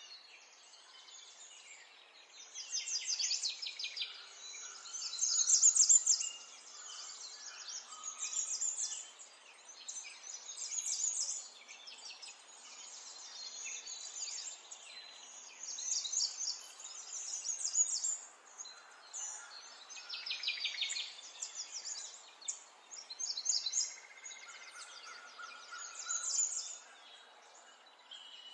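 Small birds chirping and trilling in high, quick bursts every second or two over a faint steady background.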